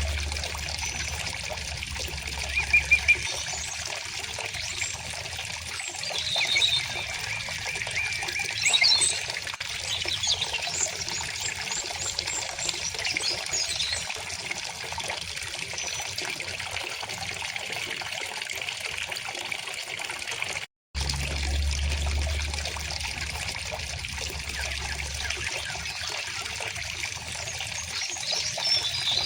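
River or stream water flowing and trickling steadily, with small birds chirping now and then. The sound cuts out for a split second about two-thirds of the way through.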